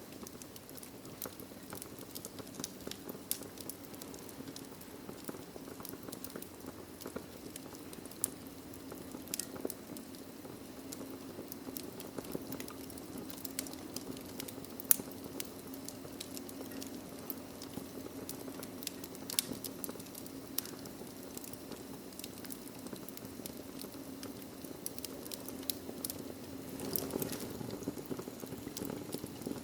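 Wood fire crackling in a fireplace: a steady low rush of flames with frequent irregular pops and snaps, swelling briefly near the end.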